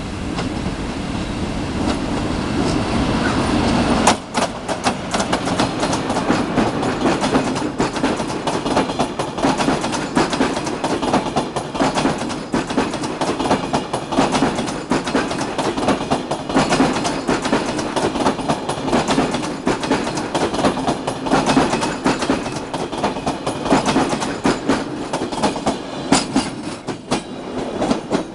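Passenger train hauled by an EU07 electric locomotive rushing past close by, the locomotive reaching the listener about four seconds in. Then comes a long, fast, uneven clatter of the sleeping cars' wheels over the rail joints, which stops suddenly as the last car passes at the end.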